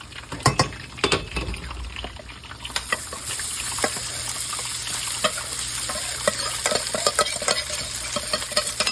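Cooked rice going into a hot pan of olive oil and toasted garlic: a couple of sharp knocks, then sizzling that comes up about three seconds in and carries on under the small clicks and scrapes of the rice being stirred.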